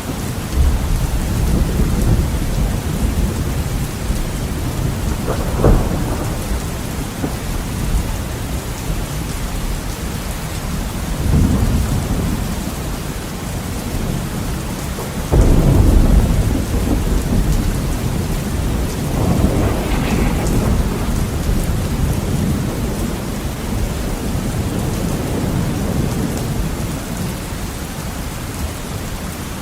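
Heavy rain on a window, falling steadily, with several rolls of thunder. A short sharp crack comes about five and a half seconds in, and the loudest peal breaks suddenly about fifteen seconds in and rumbles on for several seconds.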